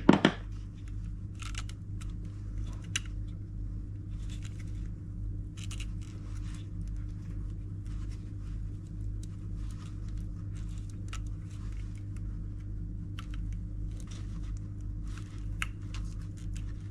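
Light, scattered clicks, taps and rustles of hands and tools working on a washing machine's drum assembly, over a steady low hum.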